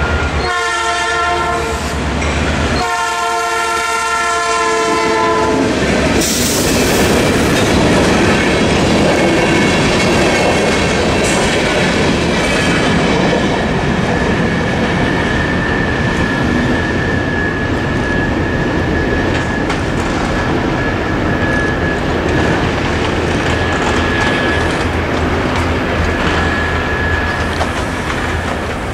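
A diesel freight locomotive's horn sounds two long blasts, the second about three seconds long, followed by the steady rumble and wheel clatter of the freight train passing over the crossing.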